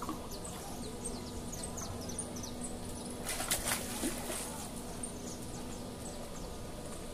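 Small birds chirping again and again in short, high, falling notes, with a brief rushing noise about three and a half seconds in.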